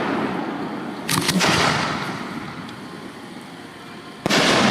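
Display fireworks going off. The rumble of one burst fades out, a few sharp cracks come about a second in, and another loud boom hits near the end.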